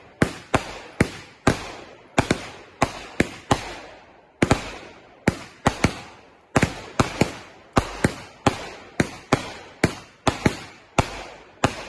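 Consumer fireworks going off in a rapid string of sharp bangs, about three a second, each echoing briefly, stopping near the end.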